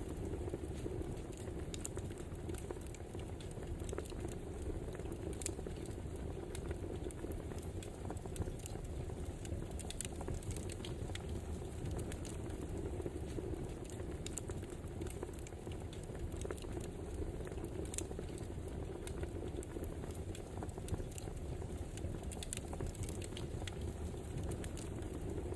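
Wood fire crackling: a steady low rush with frequent irregular sharp pops and snaps.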